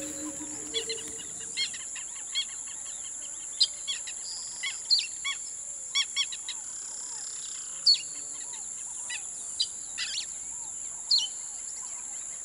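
Birds chirping: many short, separate calls over a steady high-pitched hiss, cutting off suddenly at the end.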